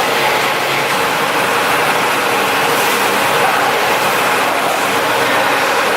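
Diesel generator set running at a steady speed, an even, unbroken engine drone.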